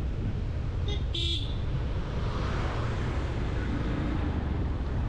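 Steady road and traffic noise while riding a motorcycle, with a vehicle horn sounding two short toots about a second in.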